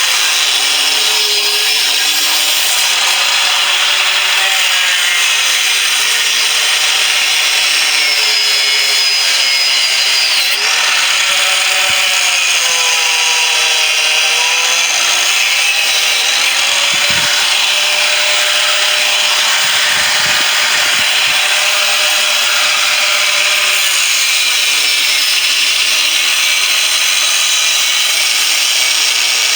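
Power tool cutting through the steel shell of a refrigerator compressor, running continuously with its pitch wavering up and down as it bites into the metal.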